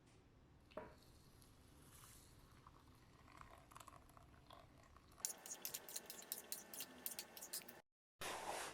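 Quiet room tone with a single light click about a second in, then a quick run of small clicks and taps from about five seconds in that cuts off abruptly near the end.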